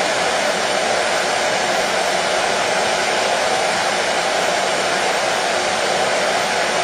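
Hair dryer running steadily: a continuous even whooshing blow with no change in pitch or level, played as white noise to soothe colicky babies to sleep.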